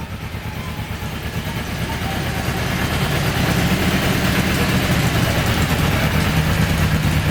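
Kawasaki Ninja 250's parallel-twin engine idling steadily, growing louder over the first few seconds.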